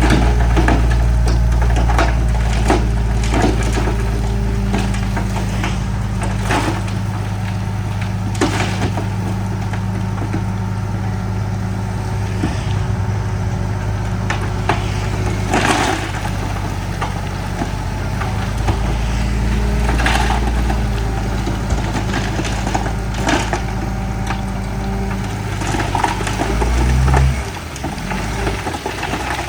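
Komatsu bulldozer's diesel engine running hard while rock crunches and clatters under the blade and tracks. The engine note drops about two seconds before the end.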